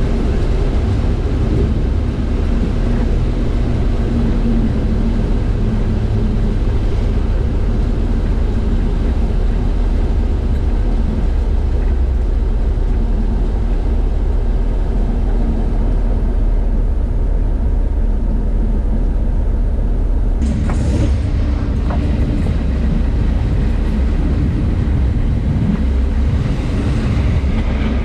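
Train running along the track, heard from the front of the train: a steady heavy low rumble, with a short louder rush about twenty seconds in and an oncoming train passing close alongside near the end.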